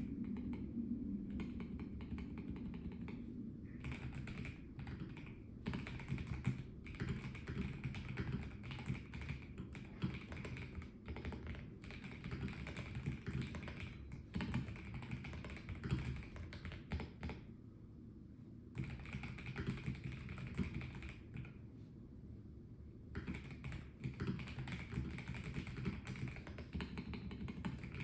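Melgeek Mojo84 plastic mechanical keyboard being typed on in quick bursts of key clicks, starting a few seconds in, with two short pauses in the second half.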